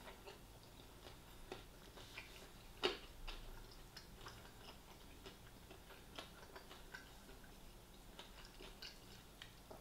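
Quiet chewing of KFC fried chicken: faint, scattered mouth clicks and small crunches, the loudest a sharp click about three seconds in.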